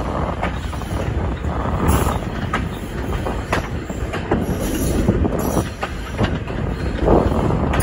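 Train running along jointed track: a steady rumble with a knock from the wheels at rail joints every second or so, and brief high wheel squeals, around two seconds in and again about five seconds in, as it takes the curve.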